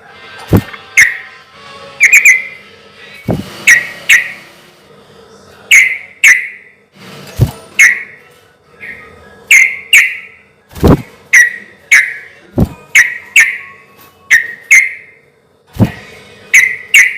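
Yellow-vented bulbul singing loud, short, bubbly whistled phrases, repeated every second or so in an easy rhythm. Several low knocks come in among the phrases.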